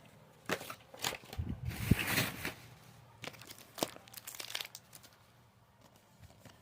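Packaging of a Pokémon trading card collection box being handled: irregular crinkling and rustling with light taps, dying away about five seconds in.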